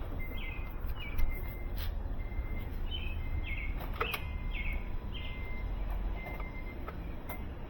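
Birds chirping in short repeated calls over a low outdoor rumble, with a few faint clicks, one louder about a second in. No cranking or engine start is heard: the car gives no crank when the key is turned, which the mechanic takes for a dead starter since he sees no current draw.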